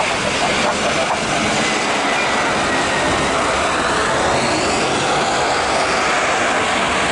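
Jet engines of a Citilink Airbus A320-214 on landing approach, very close: steady, loud jet noise.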